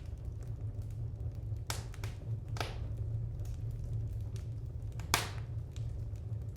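Wood fire crackling in a fireplace: a steady low rumble of the flames with scattered sharp pops and snaps, the loudest pop about five seconds in.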